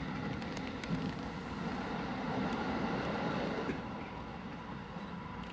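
JR East Ueno-Tokyo Line commuter train running, heard from inside the passenger car: a steady low rumble of wheels on rail, with a few faint clicks in the first second, growing a little quieter about four seconds in.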